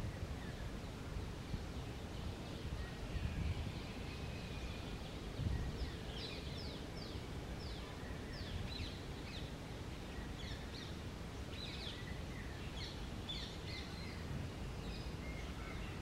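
Outdoor background noise with a steady low rumble; from about six seconds in, a bird gives a run of short, high chirps, each falling in pitch, several a second, and then scattered chirps to the end.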